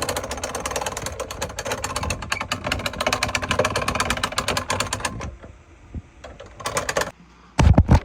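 Hand-cranked lift winch ratcheting steadily, about ten clicks a second, as the unit is raised; the cranking stops about five seconds in, and a few knocks follow near the end as the load settles.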